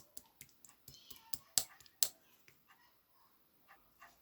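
A scattered run of sharp, irregular clicks or taps, the loudest two about one and a half and two seconds in, then fewer toward the end.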